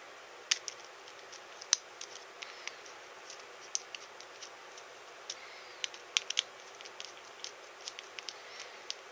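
Small parts of a figure being handled and fitted by hand: irregular light clicks and taps, a few sharper ones, over a steady faint hiss.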